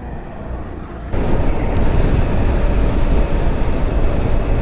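Wind buffeting the microphone on a moving motorbike, a loud steady rush with heavy low rumble that comes in abruptly about a second in.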